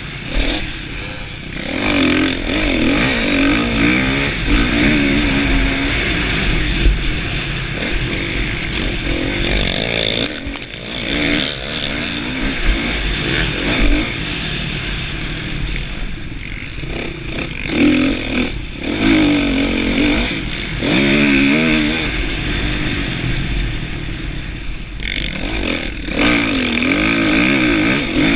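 Kawasaki KX450F single-cylinder four-stroke motocross engine under hard riding, revving up and falling back again and again as the throttle is opened and shut, with brief drops where the throttle is chopped.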